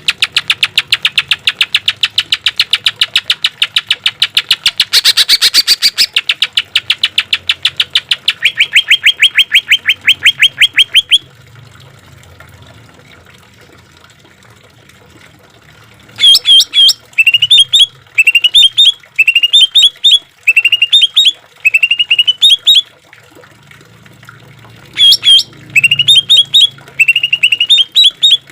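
Cucak ijo (greater green leafbird) song: a long, rapid run of evenly spaced notes for about eleven seconds. After a pause of a few seconds comes a string of short, repeated phrases of rising and falling whistled notes.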